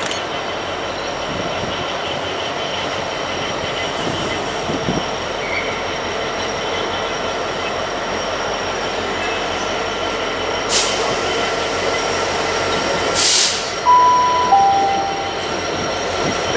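A diesel locomotive drawing slowly into a station, giving a steady rumble with a high wheel squeal, and two short hisses near the end. Then comes a two-note electronic station announcement chime, high then low.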